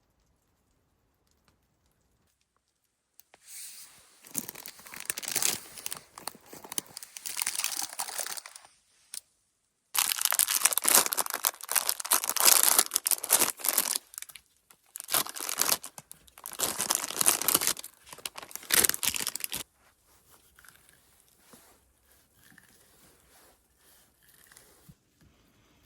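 Packaging being torn open and crinkled by hand, in several spells of crackly rustling that start about three seconds in and stop about twenty seconds in, followed by faint handling noises.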